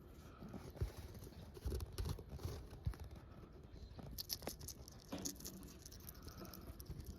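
A small pet moving about, with irregular light taps, scratches and rustling and a few soft thumps.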